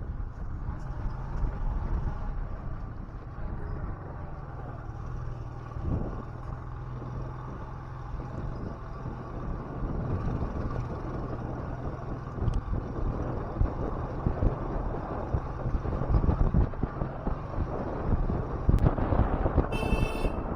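Engine of a two-wheeler running steadily while riding, with wind buffeting the action camera's microphone, the gusts heavier in the second half.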